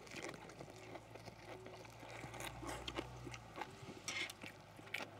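Faint chewing and mouth sounds of people eating grilled pork lettuce wraps, with a few light clicks of chopsticks scattered through, the clearest about four seconds in and near the end.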